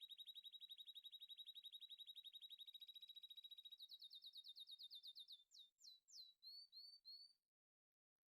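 A bird singing: a fast high-pitched trill of repeated chirps, about ten notes a second, that changes about four seconds in to slower upward-sweeping chirps and stops near the end.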